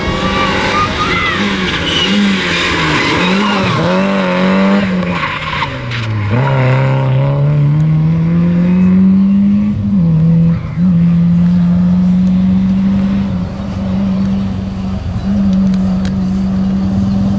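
Rally car engine revving hard up and down with tyres squealing for the first few seconds. The engine note then drops and climbs steadily under acceleration, breaks briefly at a gear change about ten seconds in, and runs on fairly steadily.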